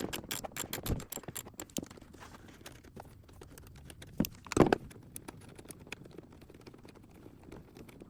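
Light clicks and rattles of plastic intake parts and clamps being handled and worked loose in a car's engine bay, quick and dense in the first second or so, then sparse, with one louder knock about four and a half seconds in.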